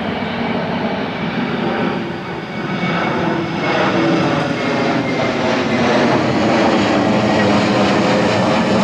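Passenger airliner's engines on approach: a steady rumble that grows louder over the first half as the plane draws nearer, with a faint high whine.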